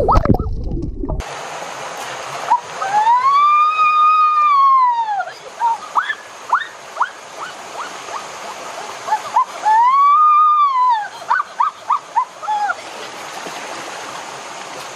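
Running water of a forest river or stream, with a high whining call twice rising and falling over it, first for about two seconds, then for about a second, and many short chirps in between.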